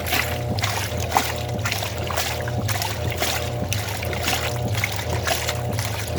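Wanke 5 kg washing machine agitating a load: a steady motor hum with water sloshing about twice a second.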